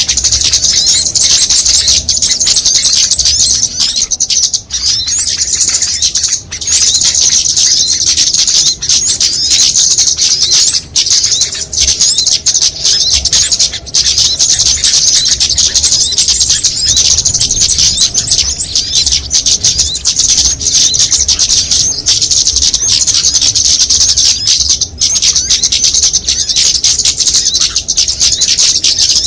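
Bird-lure recording: a dense, unbroken chorus of many small songbirds' rapid high-pitched chirps and twitters layered together.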